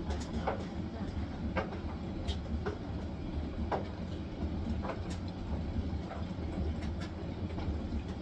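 Hisense washing machine on its spin cycle: a steady low drum rumble with short knocks and clicks at irregular intervals.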